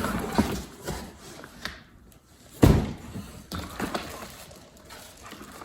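Packaging being handled while the carpet cleaner's parts come out of their box: rustling and scraping, a few light taps, and one sharp knock about two and a half seconds in.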